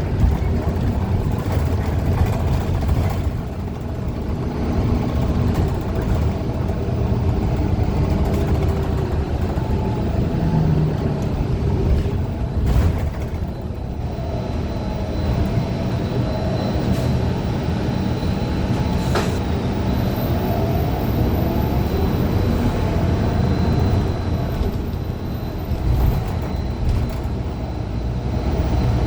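Cabin ride noise of a 2015 Gillig Low Floor 40-ft CNG bus under way: its Cummins Westport ISL G engine and Allison B400R transmission running over steady road rumble, the pitch rising and falling through the middle as the bus changes speed. The transmission is one the uploader calls messed up. A faint high whine comes in about halfway, and a sharp click sounds about two-thirds in.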